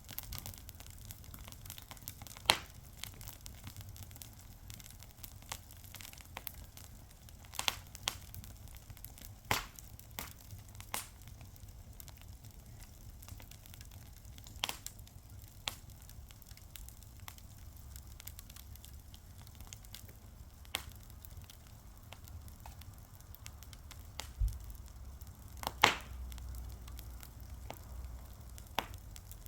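Fire crackling, with sharp pops at irregular intervals, two louder pops about two and a half seconds in and near the end, over a low rumble.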